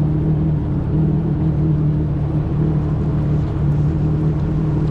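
Jet ski engine running steadily at low throttle, a constant even drone with no change in pitch.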